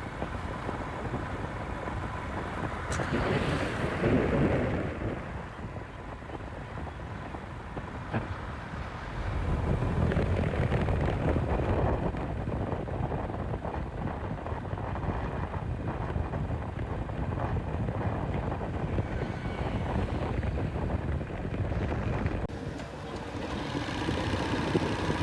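Wind rushing over the microphone of a moving motorcycle, with a low road and engine rumble underneath that grows louder about ten seconds in.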